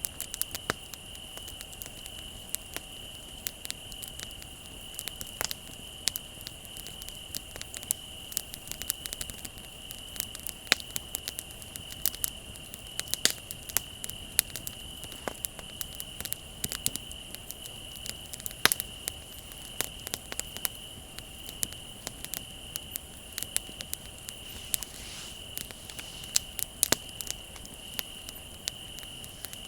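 Wood bonfire crackling, with frequent sharp pops and snaps at irregular moments, over a steady high trill of crickets.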